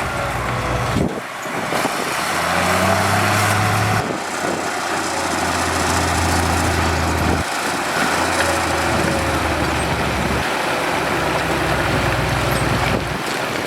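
Diesel engines of heavy road-building machinery running, the engine note changing abruptly several times.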